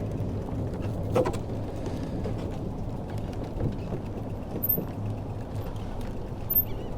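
Wind rumbling on the microphone of a moving bicycle, with a few short clicks and rattles from the ride, the sharpest about a second in.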